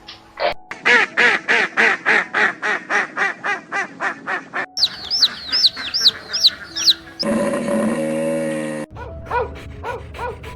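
Bird calls in rapid series, about three calls a second, in several short clips that cut abruptly from one to the next, with a longer drawn-out call partway through.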